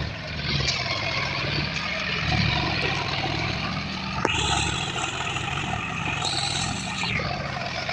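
Tractor engine running steadily as the tractor tries to pull itself out of deep paddy-field mud. About four seconds in a hiss starts suddenly with a click and lasts about three seconds before cutting off.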